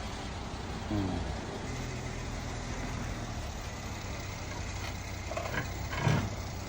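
Mercedes-Benz S320 (W222) running with a steady low hum, with a short sound about a second in and a louder thump about six seconds in.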